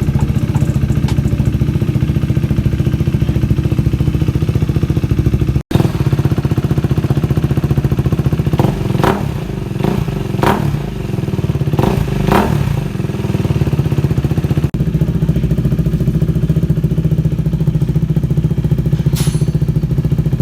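KTM 390 Duke's single-cylinder engine idling through an aftermarket MIVV exhaust. Partway through, a run of about five quick throttle blips comes before it settles back to idle.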